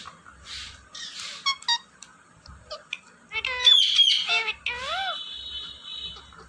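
Green pet parrot vocalizing: a few short breathy hisses, then loud squawks and bending whistled calls about halfway through, followed by a held steady note.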